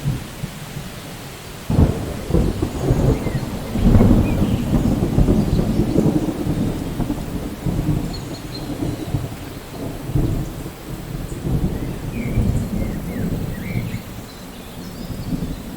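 Steady rain with a roll of thunder that breaks in suddenly about two seconds in, is loudest around four seconds, and rumbles on, slowly fading.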